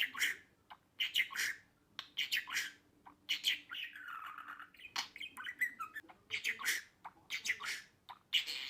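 Budgerigar chirping and squawking in short, quickly repeated calls, with one longer warbling call about four seconds in.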